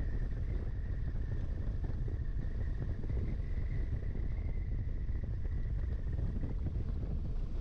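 Steady wind rush on the microphone over the low drone of a KTM 1290 Super Adventure's V-twin and its tyres, cruising at highway speed. A faint, thin, steady whine sits above it.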